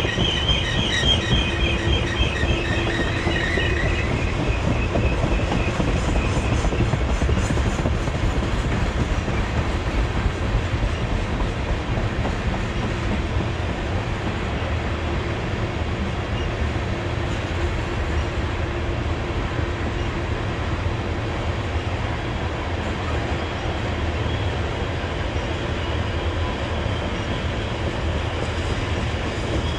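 Empty railroad tank cars of a freight train rolling past downhill: a steady rumble and clatter of steel wheels on the rails, with a high metallic squeal over the first few seconds that comes back faintly near the end.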